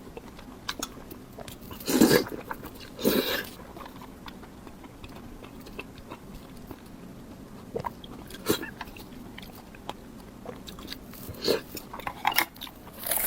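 A person biting and chewing food close to the microphone: two loud mouthfuls about two and three seconds in, and softer ones later.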